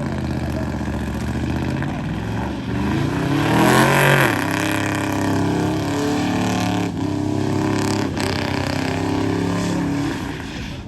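V8 car engine being revved: a falling rev at the start, one rev climbing to a peak about four seconds in and dropping back, then running steadily at a raised idle.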